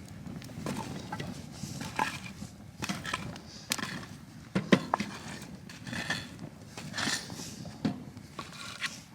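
Footsteps crunching on dry ground, about one step a second.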